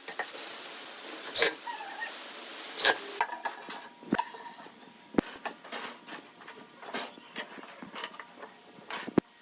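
A series of sharp knocks and clicks: two loud knocks in the first three seconds, then a run of small irregular taps and clicks with two sharper knocks, one near the middle and one near the end.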